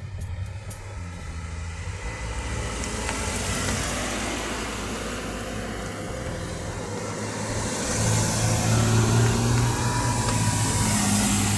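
Rally cars' engines running at a stage start gate, with cars driving past. There is a steady low engine hum, and a swell of engine and tyre noise about midway. It gets louder again in the last few seconds.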